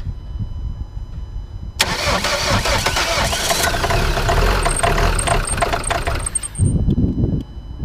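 Starter motor cranking a Ford S-Max 2.2 TDCi four-cylinder common-rail turbodiesel in a very cold start at about -15°C. It kicks in suddenly about two seconds in and turns over for around five seconds, a hard and rough start. Near the end the cranking stops and gives way to a lower rumble.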